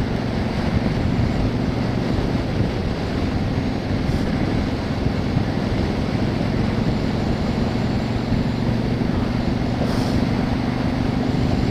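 Motorcycle engine running at a steady cruise, an even hum with constant wind and road rush.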